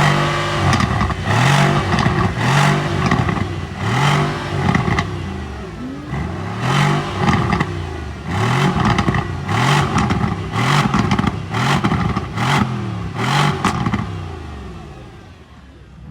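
A performance car's engine being blipped over and over, a dozen or so short revs about a second apart, each climbing and dropping back, with sharp exhaust crackles at the peaks. It fades away over the last couple of seconds.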